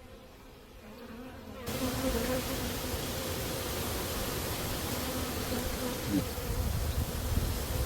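Honeybees buzzing in a steady hum around an opened hive, loudening sharply about a second and a half in, over a steady hiss.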